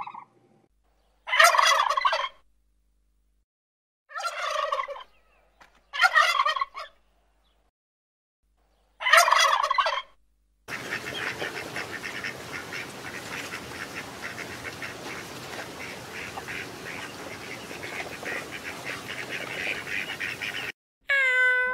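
Domestic fowl calling: four separate harsh calls of about a second each, then a continuous, dense chorus of calls for about ten seconds that stops abruptly.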